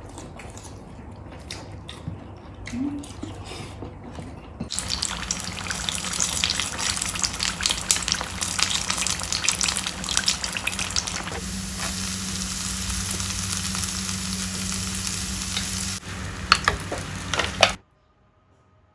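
Food frying in hot oil, a dense crackling sizzle. It starts about five seconds in, after a few scattered taps and clicks, and cuts off suddenly near the end.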